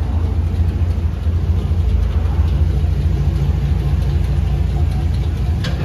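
A motor vehicle's steady low rumble, with a short sharp click near the end.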